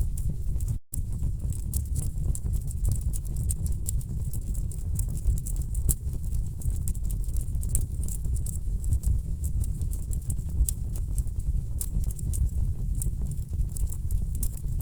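Wood fire burning in a fireplace: a steady low rumble of flames with rapid, irregular crackles and pops from the logs. The sound cuts out completely for a split second about a second in.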